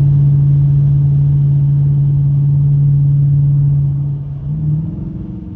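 Dodge Challenger R/T's Hemi V8 heard from inside the cabin, a loud, steady engine drone while driving. About four seconds in it eases off, with a brief change in pitch, and settles quieter and lower.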